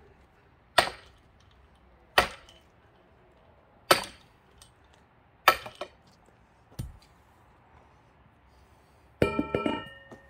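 Heavy metal-on-wood strikes splitting a thick pine log: four loud blows about a second and a half apart, then a lighter one. Near the end comes a quick rattle of clinks with a metallic ring, as the axe head works loose on its handle.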